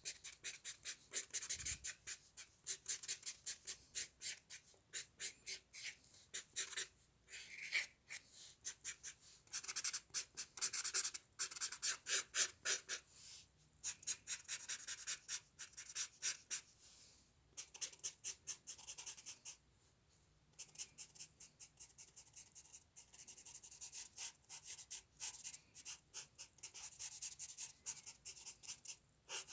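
Hand-drawing on paper: quick scratchy strokes of a drawing tool, several a second, in runs broken by short pauses.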